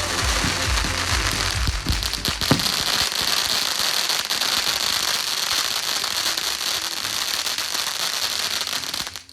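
Fireworks crackling: a dense, continuous crackle of many tiny pops, with a few louder cracks two to three seconds in, stopping suddenly near the end.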